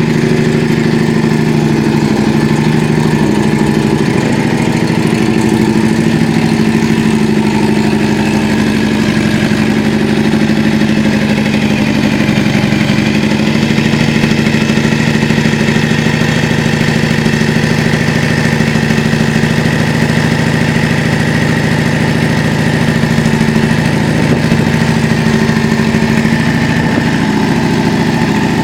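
Yamaha Drag Star 400's V-twin engine idling steadily through a custom aftermarket muffler.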